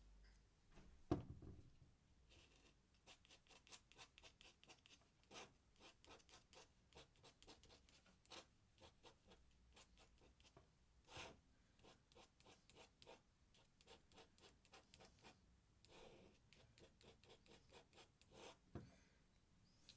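Faint scratching of a pen nib on paper in many quick, short strokes, with a single knock about a second in.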